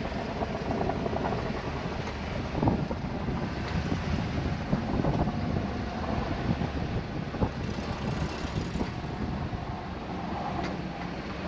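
Snow-plow truck's engine running steadily, with wind on the microphone.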